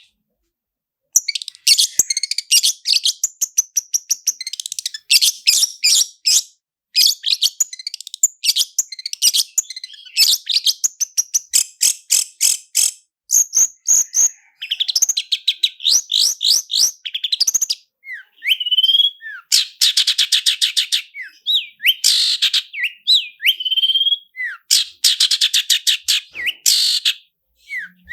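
Long-tailed shrike (cendet) singing a fast, continuous song of rapid rolling trills and quick repeated notes, with slurred rising calls later on and only short breaks.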